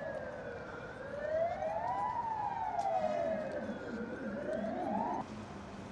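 Emergency vehicle siren wailing: one tone climbing for about a second and falling more slowly, repeating about every three seconds. It cuts off abruptly about five seconds in.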